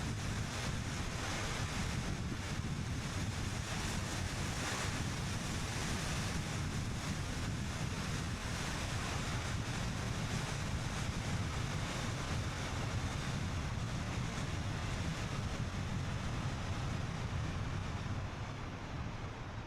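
Steady road noise of a car driving along: low tyre rumble under a rush of wind, easing slightly near the end.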